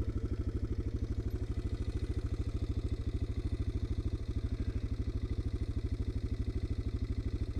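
Motorcycle engine idling at a standstill, a steady, even beat of about a dozen pulses a second.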